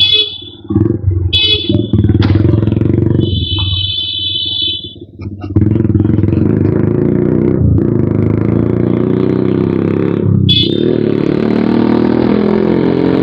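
Suzuki Gixxer motorcycle's single-cylinder engine running through an aftermarket exhaust while being ridden, the throttle easing off and opening up again. Several short high horn beeps sound over it, one held longer about three seconds in.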